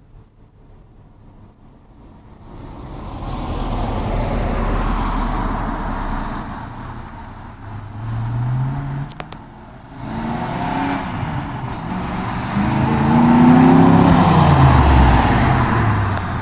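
1995 Ford Mustang GT's 5.0 V8 through glasspack mufflers, driving by. The engine comes up about three seconds in and accelerates with a rising note, easing off and pulling again. It is loudest about two-thirds of the way through as it passes, then its pitch falls as it moves away.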